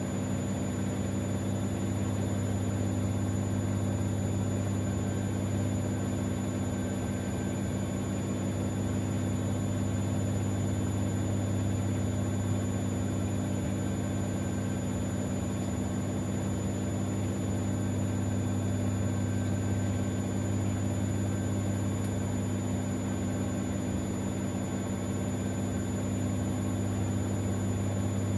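Siemens Extraklasse XLs 140 A washing machine running with a steady, even motor hum and no breaks or changes.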